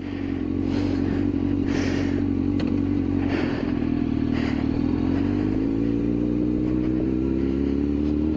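Suzuki GSX-R600 inline-four engine running steadily at raised revs, its pitch slowly creeping up in the second half. A few short hissing bursts come over it in the first half.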